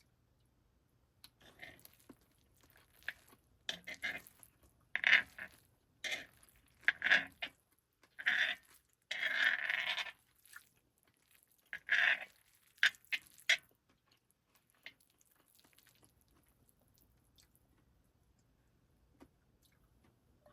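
Close-miked crunching and rustling in about a dozen short, irregular bursts over the first thirteen seconds, one of them lasting about a second.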